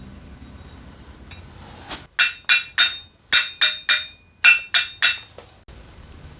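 Nine sharp metallic taps with a brief ring, in three quick groups of three: a hammer striking metal engine parts during reassembly.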